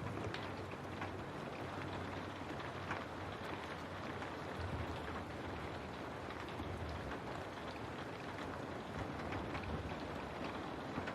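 Steady rain falling on a window pane, with many small drop ticks over an even hiss and a low rumble that comes and goes.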